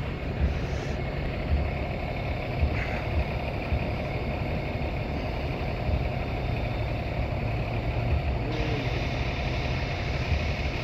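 Steady vehicle and street-traffic noise with a continuous low rumble.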